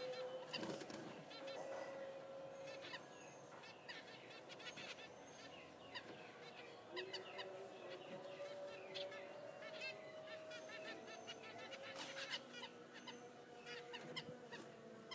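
Small cage birds chirping faintly, many short high calls repeated throughout, with scattered light clicks and crackles.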